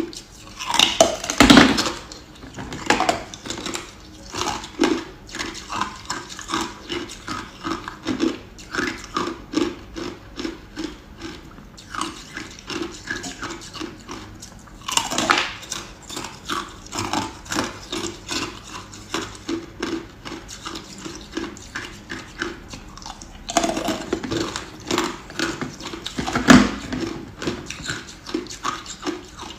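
Ice being chewed close to the microphone: a steady run of crunches about twice a second, with louder, longer crunches about a second in, around fifteen seconds and again between about twenty-four and twenty-seven seconds.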